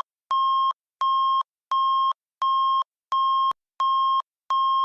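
Emergency alert broadcast tone: evenly repeated electronic beeps of one steady, harsh mid-pitched tone, about seven in a row, at roughly three beeps every two seconds. They close the alert message.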